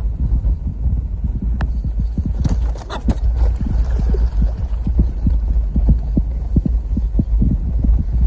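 Steady low rumble with many soft, irregular thumps, typical of wind and sea working on a small ocean rowing boat.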